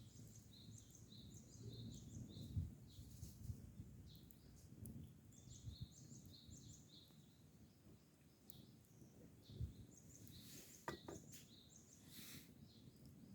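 Faint small birds chirping in short repeated calls over low outdoor background noise, with a few soft knocks.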